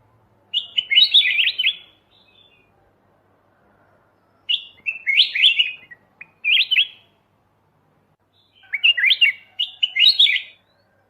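Kutilang emas (white-eyed golden bulbul) singing three short, quick warbled phrases with pauses between them. This is a masteran recording, birdsong used to tutor caged songbirds.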